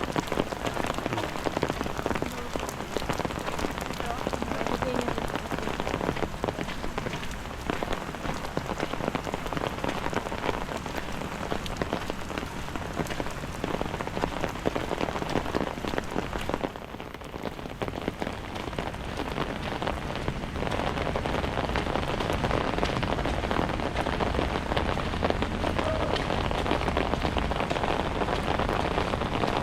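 Steady rain falling, with a dense patter of individual drops striking hard surfaces; it eases briefly about halfway through, then picks up again with a low rumble underneath.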